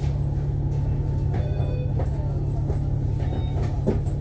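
Interior of an Alexander Dennis Enviro500 MMC double-decker bus on the move: a steady low drone of engine and road noise, with a few short rattles from the cabin near the end.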